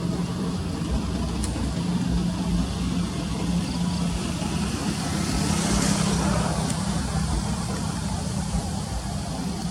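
Motor vehicle engine running steadily with a low hum; a rush of noise swells and fades about six seconds in.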